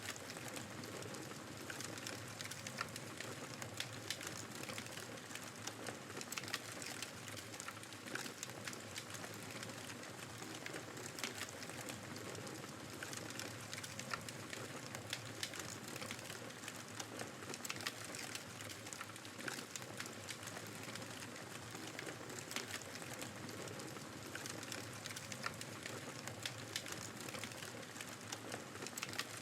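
Wood fire crackling with frequent irregular pops and snaps over a steady rush of blizzard wind.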